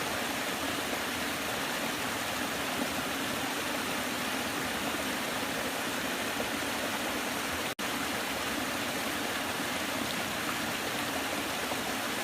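Waterfall, water rushing and splashing in a steady, even noise. The sound drops out for a split second about eight seconds in.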